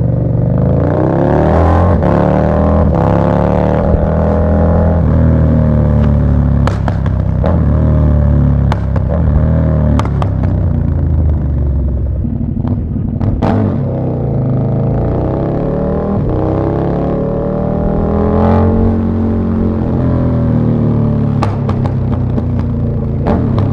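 KTM Super Duke 1290 R's V-twin through an Austin Racing V3 150 mm exhaust, running under way. The pitch climbs over the first few seconds, holds, then rises and falls again later, with a few sharp cracks along the way.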